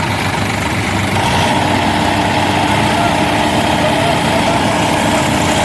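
Tractor diesel engine running steadily and loudly.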